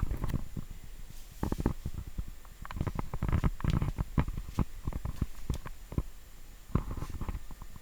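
Irregular knocks, clicks and low rubbing of things being handled, with no motor running.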